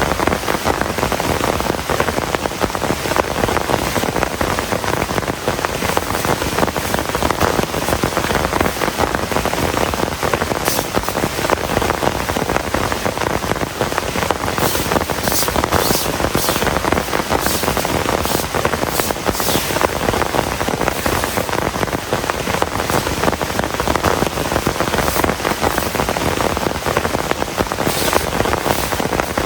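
Heavy rain falling steadily, a dense unbroken patter on surfaces. Now and then a few sharper high-pitched drips or splashes stand out.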